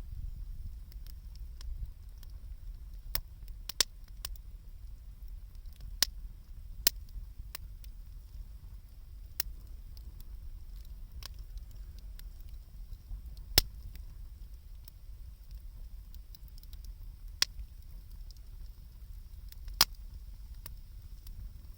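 Wood campfire crackling, with irregular sharp pops every second or so over a low steady rumble.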